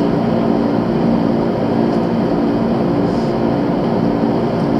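Steady running noise heard from inside the passenger cabin of a moving JR 185 series electric train: the rumble of wheels on the rails under a steady low hum.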